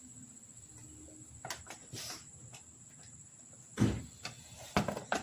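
A few scattered knocks and clicks of handling, the loudest a thud nearly four seconds in.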